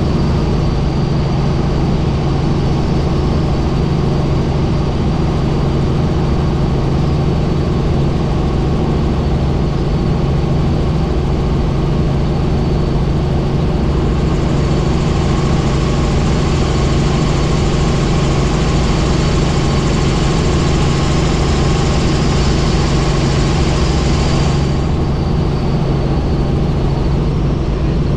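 Helicopter in flight: a steady engine and rotor drone with a strong low hum. A high hiss joins about halfway through and cuts off a few seconds before the end.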